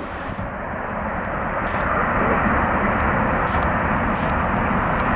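CSX local freight train rolling past: a steady rumble and rattle of the train that grows louder over the first two seconds and then holds, with faint sharp clicks scattered through it.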